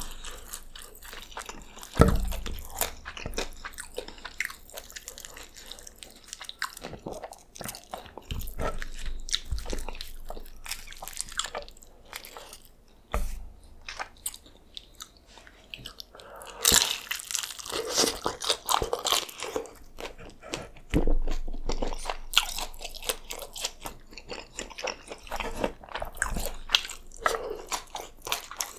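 Close-miked eating of crisp birria tacos: repeated crunchy bites and chewing, with a few low thuds between them.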